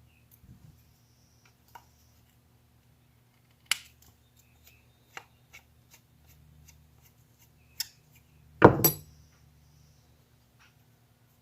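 Small hard parts and hand tools handled and set down: scattered sharp clicks and clinks, with a louder clatter about nine seconds in.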